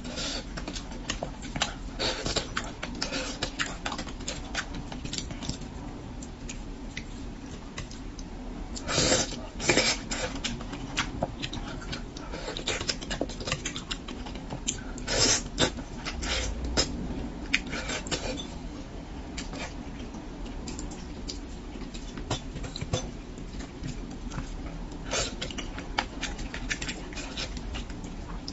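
Close-miked eating of spicy braised fish: wet chewing with many small mouth clicks and smacks, with a few louder wet bursts about nine and fifteen seconds in.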